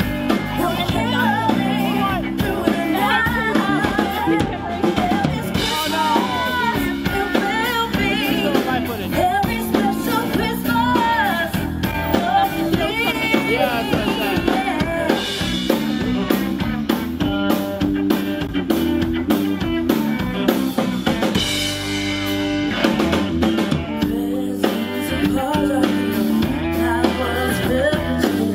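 Live band playing a song: a singer's voice over a steady drum-kit beat and backing instruments.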